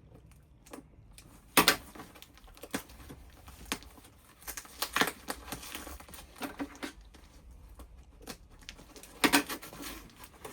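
Packaging crinkling and tearing in irregular crackles as a hard-to-open package is worked open, with louder bursts about a second and a half in and again near the end.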